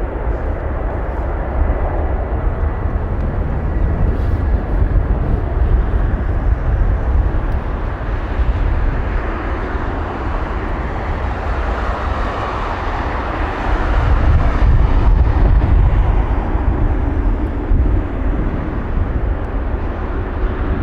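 Jet engine noise of a Boeing 777-200ER with Rolls-Royce Trent engines at takeoff power: a steady, heavy low rumble with a rushing roar above it, swelling a little about two-thirds of the way through.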